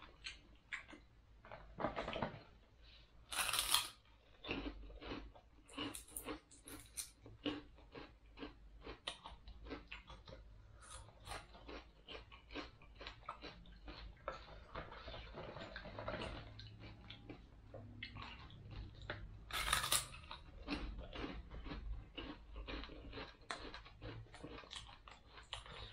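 A person biting and chewing crispy fried catfish, many short crunches in quick succession, with two louder crunches about three and a half seconds in and again about twenty seconds in.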